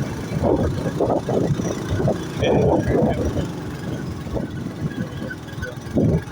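Motorcycle engine and exhaust running while riding, with the rough exhaust note of a silencer that the rider says is not good.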